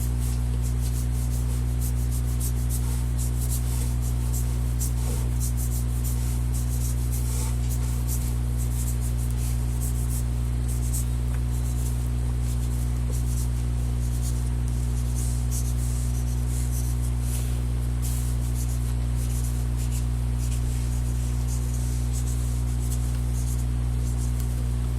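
Drawing strokes scratching on paper, many short strokes repeated throughout, over a steady low hum.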